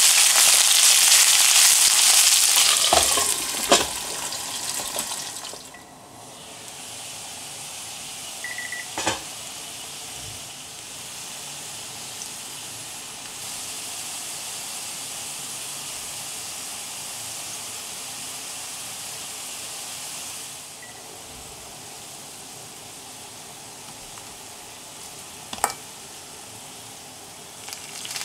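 Sweet potato wedges sizzling in a shallow layer of oil in a frying pan: a loud steady sizzle that drops to a quieter one about six seconds in. A few sharp clicks of chopsticks against the pan come as the pieces are turned.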